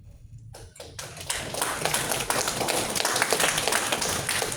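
Audience applause: a dense patter of claps starting about half a second in and growing louder about a second later.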